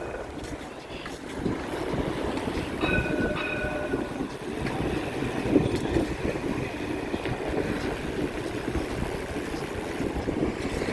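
Steady rumbling, rattling ride noise of a bicycle rolling along, with brief high squeaks about three seconds in.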